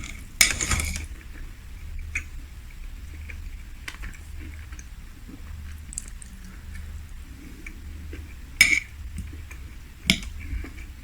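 Cutlery clinking and scraping on a plate while eating, with a short clatter about half a second in and sharp clinks near the end, and quieter chewing and small ticks in between.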